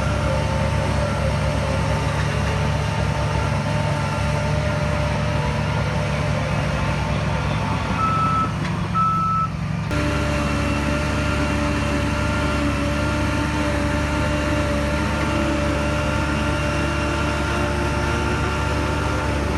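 Heavy diesel engine of earth-moving machinery running steadily, with a reversing alarm beeping; the engine note changes abruptly about halfway through.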